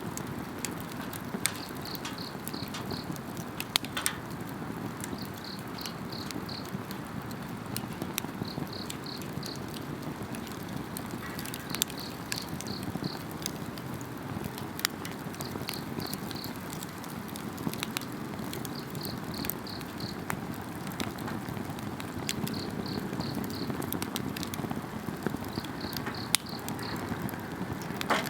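Wood campfire crackling, with scattered sharp pops over a low steady rush, while insects chirp in short high trills that repeat every couple of seconds.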